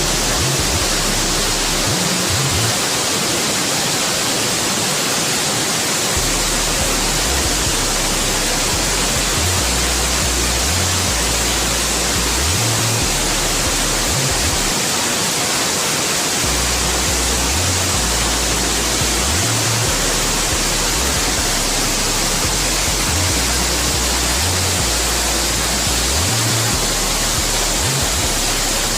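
Waterfall roaring steadily: a dense, even rush of falling water, with an uneven low rumble underneath.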